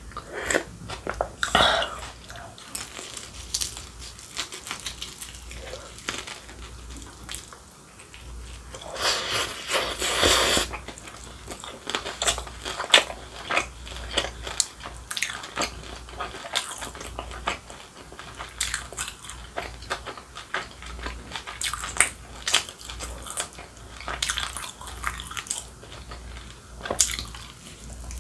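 Close-miked eating sounds: chewing and crunching of deep-fried dumplings, many short wet clicks and crunches. A louder two-second rush comes around ten seconds in.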